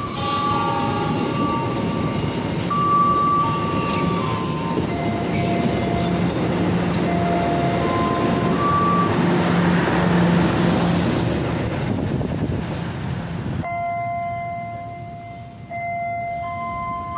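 Passenger train coaches rolling past a station platform: a steady, loud rumble and rattle of wheels on rails, with a simple tune of clear held notes playing over it. About fourteen seconds in, the train noise cuts off abruptly, leaving the tune over a faint low hum.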